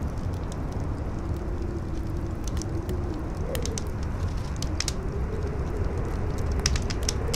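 Howling wind with a wavering pitch that climbs near the end, over a low rumble, and a campfire crackling with scattered sharp pops.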